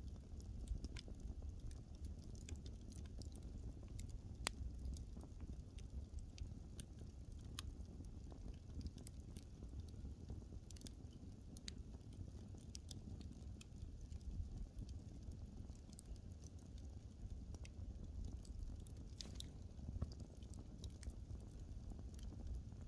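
Wood fire burning, with irregular crackles and sharp pops over a low, steady rumble of flame.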